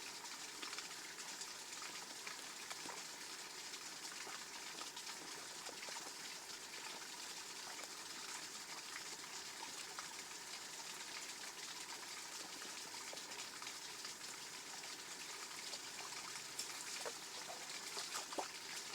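Water from a small waterfall in a rice-paddy channel, running steadily as an even, continuous rush and trickle.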